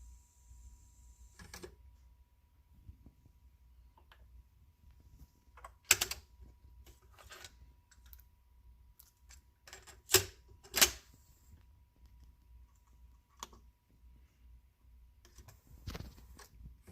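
Scattered sharp clicks and knocks of hard objects being handled, loudest once about six seconds in and as a close pair about ten seconds in, over a faint steady high tone.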